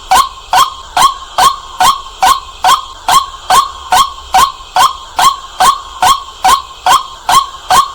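White-breasted waterhen calling: a loud, unbroken string of harsh 'kwak' notes, very evenly spaced at about two and a half a second.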